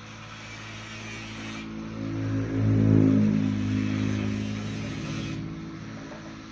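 Yamaha F1ZR two-stroke single-cylinder engine running through a modified exhaust (re-routed front pipe, bored-out silencer). Its sound swells to a peak about three seconds in, then eases off.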